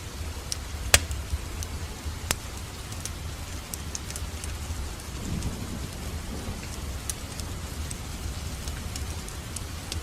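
Wood fire crackling in a fireplace: a steady low rumble of flames with scattered sharp crackles, and two loud pops about one and two seconds in.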